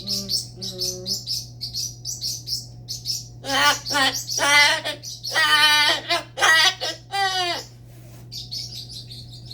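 Pet parrot chirping quickly and repeatedly, then giving a series of loud, drawn-out pitched calls from about three and a half to seven and a half seconds in. A few faint chirps follow near the end.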